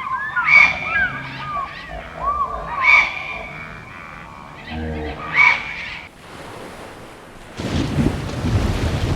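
Birds calling: repeated short chirps and squawks, loudest in three bursts about two and a half seconds apart, dying away about six seconds in. About seven and a half seconds in, a loud rushing, rumbling noise starts abruptly.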